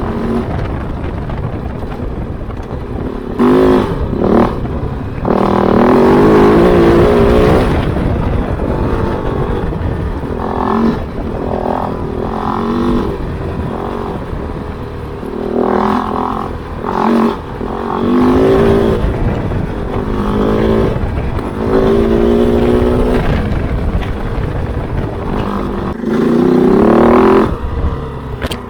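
Kove 450 Rally's single-cylinder engine on an off-road ride, the throttle opened in about eight short bursts of revving between steadier, lower running.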